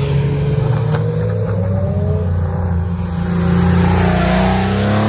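Classic Porsche 911 Turbo's flat-six engine pulling past at low revs, its pitch climbing steeply near the end as it accelerates away.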